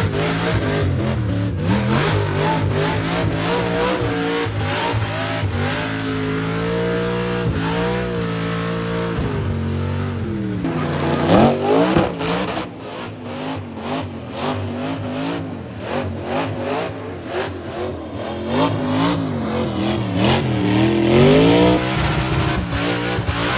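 Car engine revving hard, its pitch climbing and falling again and again as it is driven, with its sharpest surge about halfway through.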